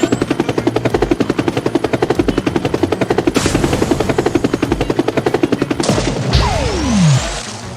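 Cartoon machine sound effect: a fast, even rattling chop of about ten pulses a second for some six seconds, then a falling whistle near the end, over background music.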